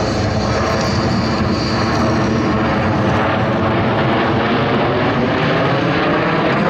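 Loud, steady engine roar of a Blue Angels display aircraft in flight.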